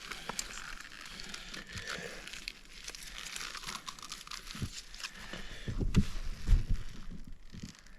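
Crinkling and rustling of material being handled, with many small crackly clicks, and a few dull knocks between about four and a half and seven seconds in.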